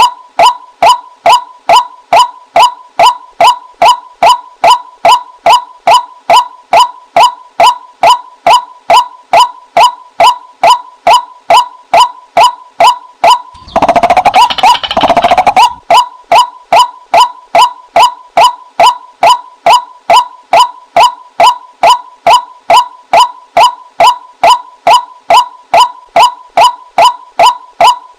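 White-breasted waterhen female call, a decoy recording: one short call note repeated evenly about twice a second, with a rougher, wavering burst of calling for about two seconds in the middle.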